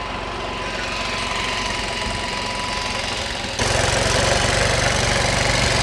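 A vehicle engine running steadily, with a sudden step up in loudness about three and a half seconds in.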